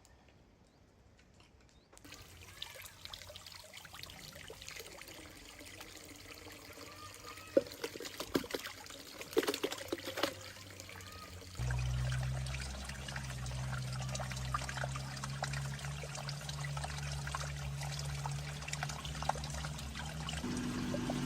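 Water trickling and splashing, with scattered clicks. A steady low hum comes in about halfway through.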